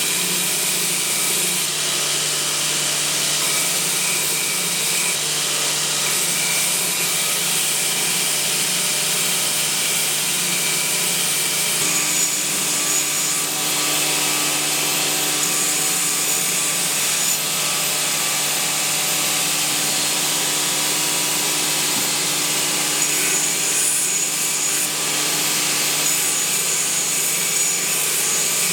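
A power tool running steadily and working material without a break, with a continuous abrasive rasp over a steady motor hum.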